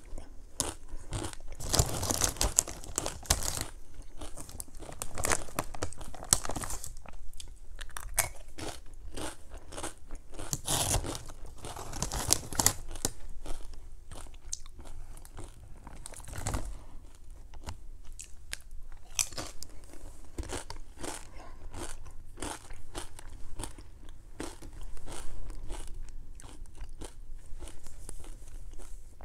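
Close-miked chewing of crisp snack chips: bouts of sharp, rapid crunches as each mouthful is bitten and chewed, with quieter pauses between bites.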